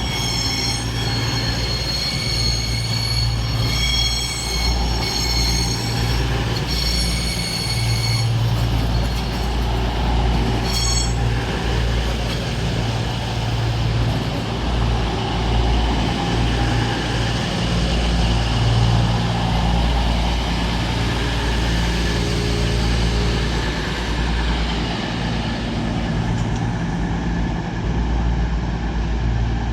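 East Midlands Railway class 222 Meridian diesel multiple unit arriving at a platform. Its wheels give a high-pitched squeal for roughly the first ten seconds, then fade into a rushing rumble, over the steady low running of its diesel engines.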